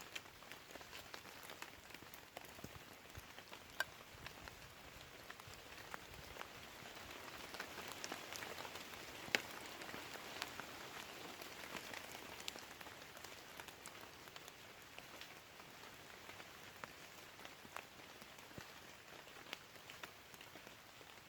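Steady rain falling, with many single drops ticking sharply against the steady hiss; the rain swells a little about halfway through.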